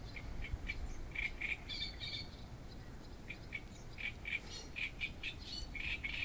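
Birds chirping: short, high calls in quick runs of several a second, growing busier near the end.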